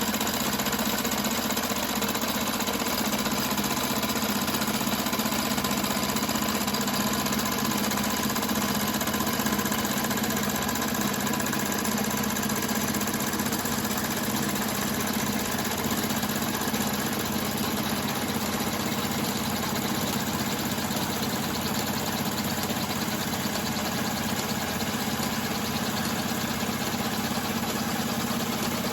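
Model steam workshop machinery running steadily: small model engines and their driven machinery turning over continuously with an even mechanical hum and rattle.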